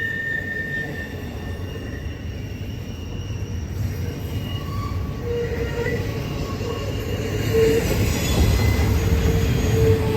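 A Norfolk Southern train rolling past with a steady rumble and the squeal of its wheels on the rail. A high squeal fades away in the first second or two, and a lower squeal comes in from about halfway.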